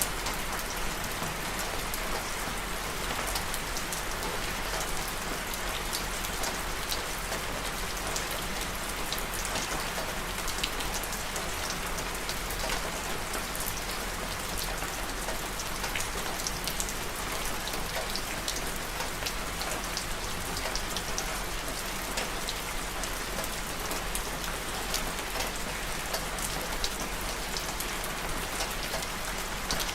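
Steady rain falling, with a dense hiss and many separate drop ticks.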